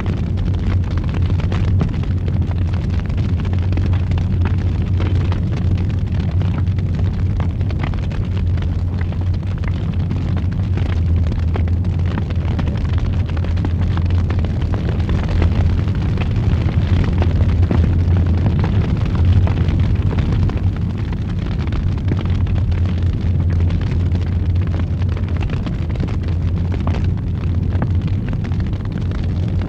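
Fire roaring in a fireplace: a steady low rumble with many small crackles and pops scattered through it.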